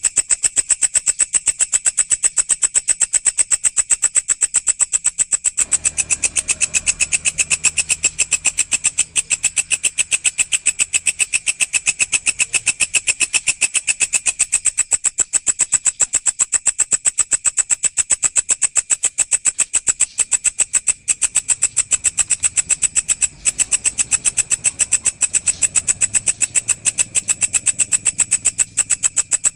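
Walang, a singing grasshopper, calling in a fast, even, unbroken train of high-pitched pulses.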